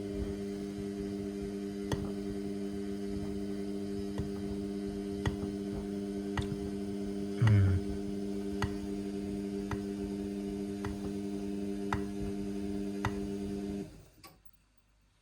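Indesit washing machine's drain pump humming steadily, with a faint click about once a second and a brief louder gurgle about halfway through. The hum cuts off suddenly about a second before the end.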